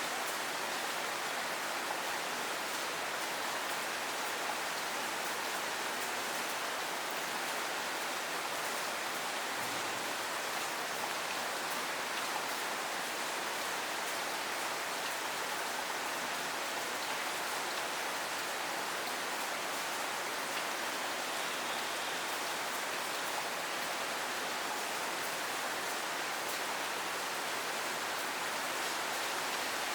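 Steady rain falling, an even hiss of drops on the surfaces all around, without change.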